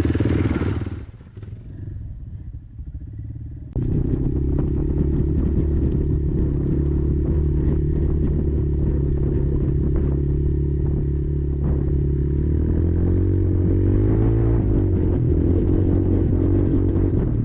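Kymco Maxxer 300 quad's engine running. It drops to a quieter patch for a few seconds, then comes back abruptly and runs steadily. Around three-quarters of the way through the revs waver up and down.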